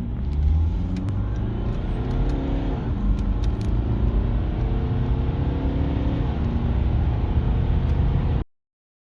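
BMW 3 Series (F30) diesel engine under full-throttle acceleration, its pitch climbing, dropping at a gear change about three seconds in, then climbing again. The sound cuts off suddenly near the end.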